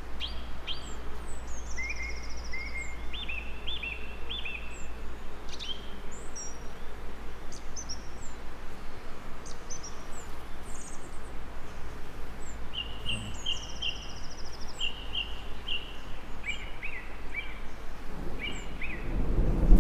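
Several songbirds chirping and trilling over a steady background hiss. Near the end a low rumble of thunder starts to build.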